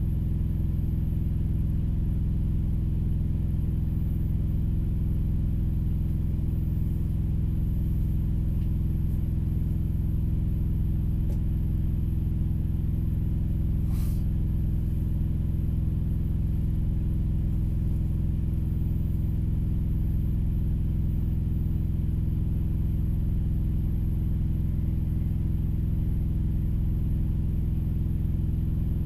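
A diesel engine idling steadily, a low even rumble heard from inside a truck's cab. There is one faint click about halfway through.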